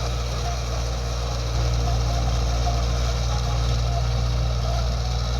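Tractor engine running steadily with a low drone, a little louder from about a second and a half in.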